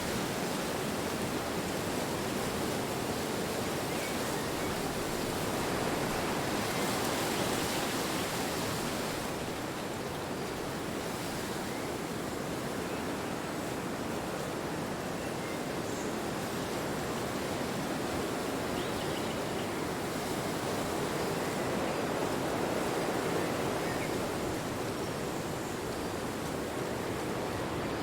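Wind blowing steadily, a continuous rushing that swells a little twice.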